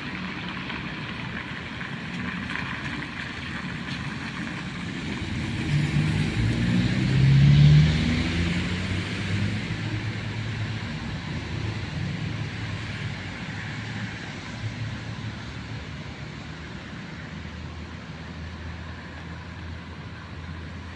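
Steady hiss of rain on a street, with a car passing by: its engine and tyres swell to loudest about seven or eight seconds in, then fade away.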